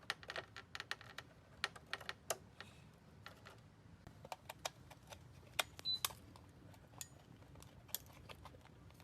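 Irregular light clicks and taps, as of plastic parts and wire connectors being handled and fitted back into an air conditioner's indoor unit.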